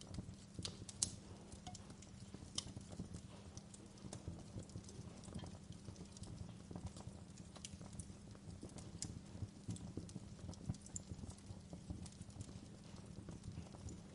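Wood fire crackling: scattered sharp pops and snaps over a low steady rumble, with one louder pop about a second in.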